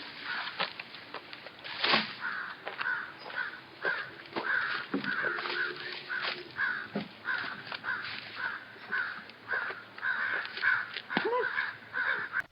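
Crow cawing over and over, about two calls a second, with scattered light clicks and knocks.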